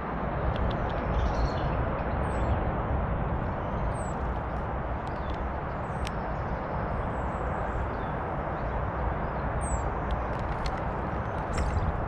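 Steady rushing outdoor background noise, with several very short, thin, high-pitched downward-sweeping calls from small garden birds and a few sharp taps scattered through it.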